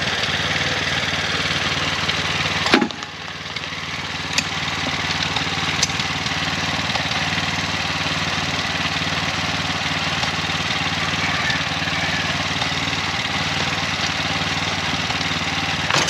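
Small engine of a bamboo train (norry) running steadily, with a single sharp knock about three seconds in.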